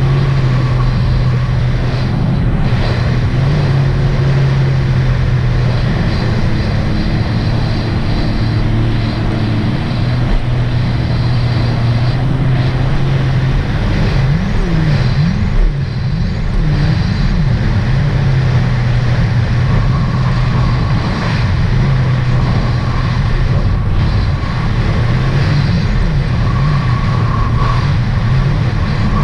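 2018 Sea-Doo RXT-X 300 personal watercraft under way: its supercharged three-cylinder engine, fitted with a free-flow exhaust, running at a steady cruise. The pitch steps up and down every few seconds as the throttle shifts, over a constant rush of wind and water, with one short knock about halfway through.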